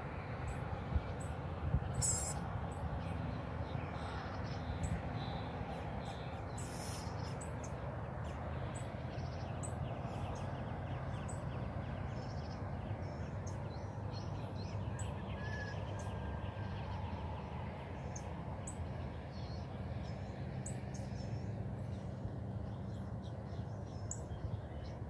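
Birds chirping and calling outdoors: many short, high chirps scattered throughout, with one brief clear note about halfway, over a steady low rumble.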